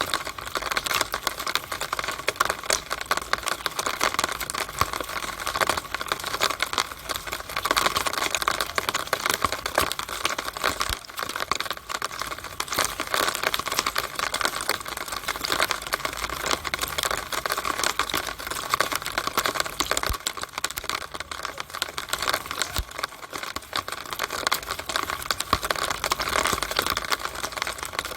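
Rainwater running and spattering inside a rainwater downspout in the rain: a steady, dense crackling patter of fine drips and splashes that does not let up.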